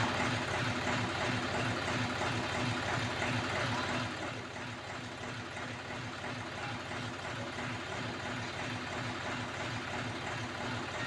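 Engine running at idle: a steady hiss over a low, evenly pulsing throb, dropping slightly in level about four seconds in.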